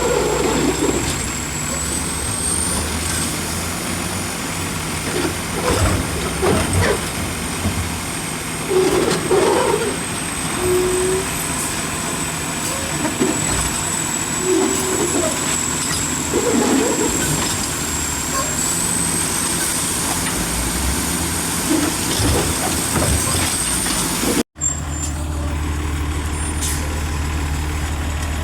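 Garbage truck diesel engines running steadily, with scattered clanks and short squeals from the trucks' lifting and packing gear. The sound breaks off for an instant about 24 seconds in, and a deeper, steadier engine hum follows.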